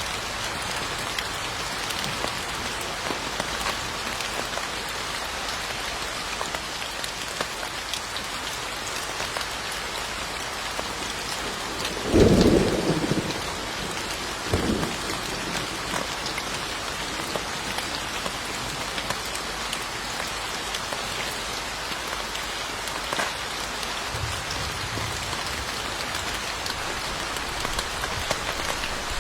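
Steady rain falling on a surface, with a clap of thunder about twelve seconds in, lasting about a second and the loudest moment, and a shorter, weaker rumble a couple of seconds after it.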